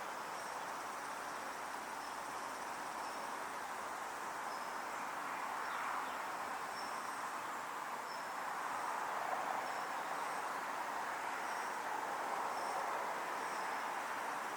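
Grass insects chirping, short high calls repeating about once a second, over a steady rushing noise.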